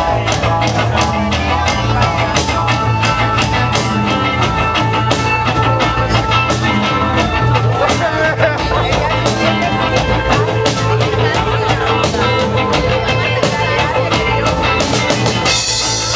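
Rock music played on drum kit and guitar, with a steady beat.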